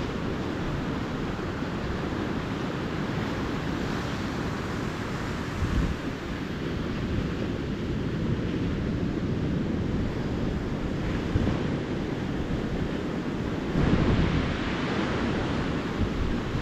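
Ocean surf washing steadily on a beach, with wind on the microphone. Louder low surges come about six seconds in and again near the end.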